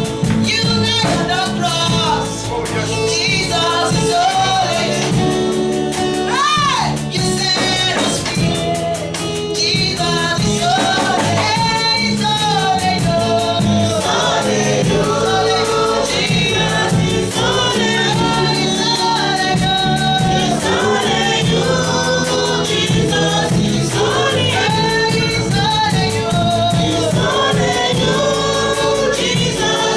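Choir singing a gospel worship song over instrumental accompaniment, with a steady beat and bass line.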